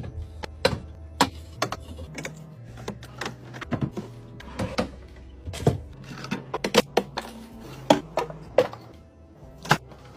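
Irregular clicks and clacks of food items and containers being handled and set down while a refrigerator is arranged, over background music with low sustained notes.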